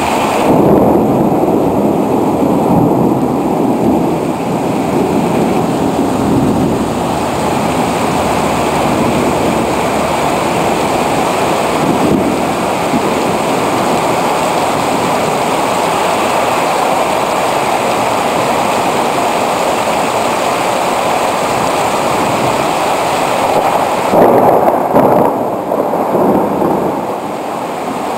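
Heavy rain pouring down in a loud, steady rush, swelling louder in the first few seconds and again about 24 seconds in.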